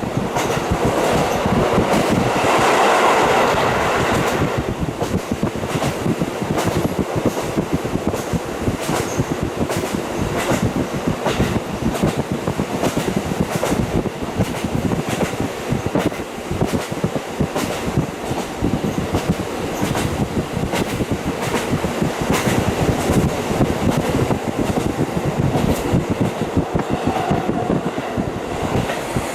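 KiHa 40 diesel railcar in motion, heard through a fully open window: steady rolling and wind noise, with the wheels clicking over rail joints all through. The sound swells louder about two to four seconds in.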